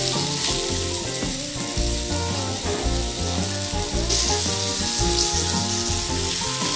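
Guava pieces sizzling steadily in oil and water in a nonstick pan, with background music underneath.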